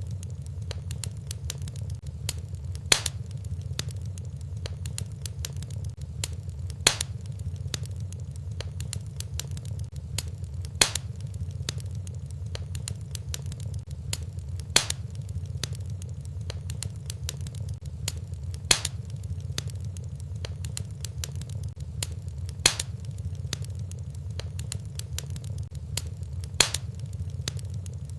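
Wood fire burning in a fireplace: a steady low roar with constant small crackles, and a louder sharp pop about every four seconds.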